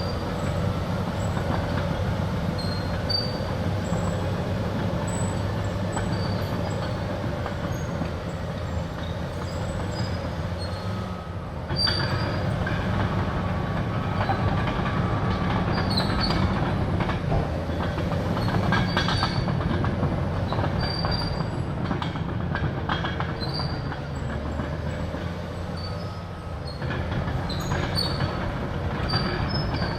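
Caterpillar D6R crawler dozer working, its C9 diesel running steadily with the steel tracks clanking and squealing, and a few sharper knocks about twelve seconds in and again a little later.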